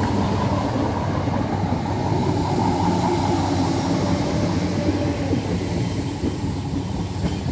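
British Rail Class 313 electric multiple unit passing over a level crossing: a steady rumble of wheels and running gear on the rails, with a faint hum from the motors.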